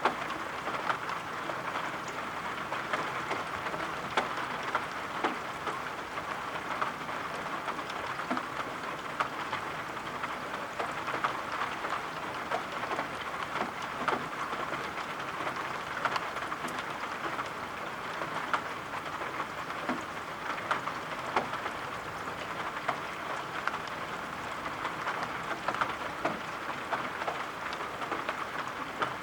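Steady rain falling, with scattered sharp taps of individual drops over an even hiss.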